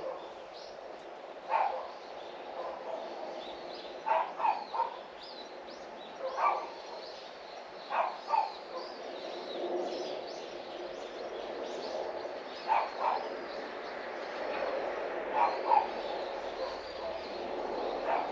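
A dog barking in the distance, short single barks and quick runs of two or three, while small birds chirp throughout over a steady outdoor background hum.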